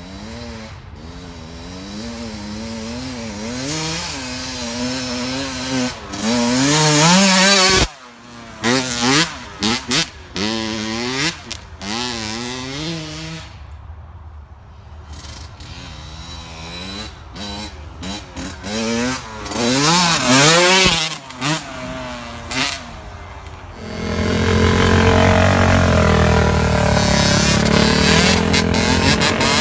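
Off-road vehicle engines revving up and down as they ride, the pitch rising and falling over and over with the throttle. About 24 seconds in it turns into a steadier, louder rumbling rush.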